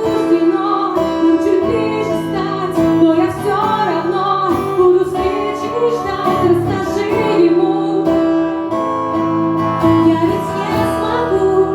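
A woman singing a song in Russian to guitar accompaniment.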